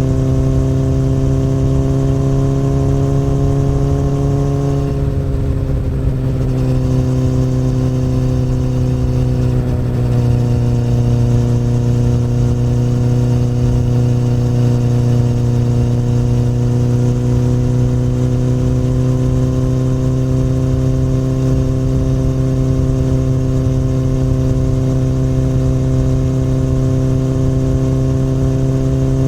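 2008 Honda CBR1000RR's inline-four engine through an Akrapovic exhaust, ridden at steady throttle uphill. The pitch rises slightly, drops about five seconds in and again near ten seconds, then holds steady with a slow climb.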